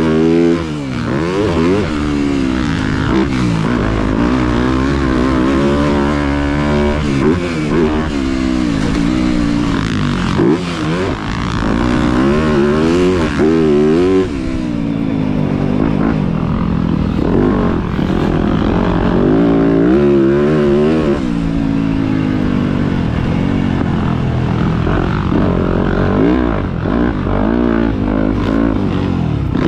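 Motocross bike engine revving hard, its pitch repeatedly climbing and dropping with throttle and gear changes as it rides the track.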